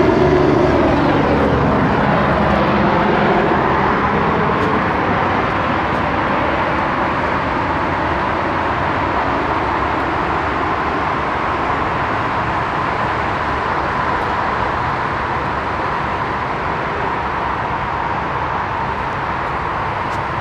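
A vehicle going by with a loud, steady rush; its pitch slides down over the first few seconds.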